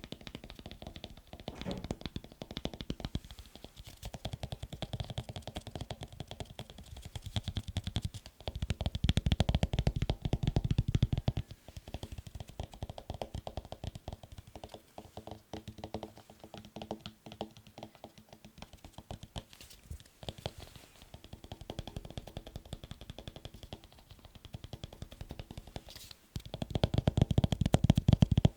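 Rapid, continuous tapping on assorted objects, many small clicks a second. It gets louder and deeper for a few seconds about a third of the way in, and again near the end.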